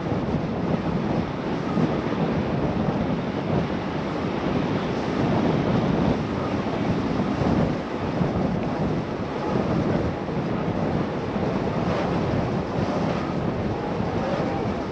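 Wind rushing over the microphone while cycling: a steady noise with uneven swells.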